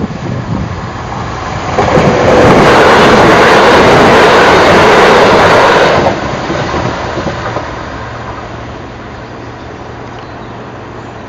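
A Southern Class 377 electric multiple unit passing over a level crossing. A loud rush of wheels on rail and air starts about two seconds in and lasts about four seconds, then fades as the train draws away.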